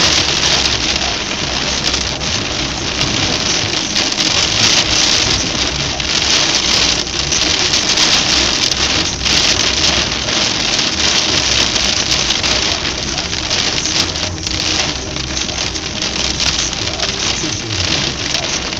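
Heavy rain pelting a car's windshield and body, heard from inside the car as a loud, steady hiss of water with a low rumble underneath.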